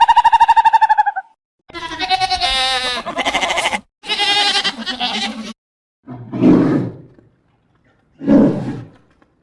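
A series of animal calls: a steady, fast-pulsing pitched tone that cuts off about a second in, then two long wavering calls, and two shorter, lower calls near the end.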